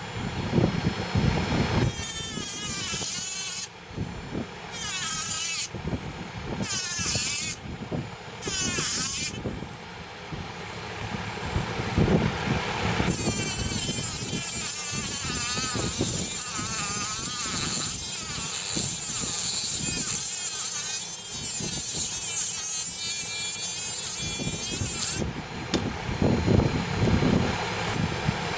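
Small electric motor of a homemade mini tool whirring, switched on in four short bursts and then run steadily for about twelve seconds, its pitch wavering as the load changes.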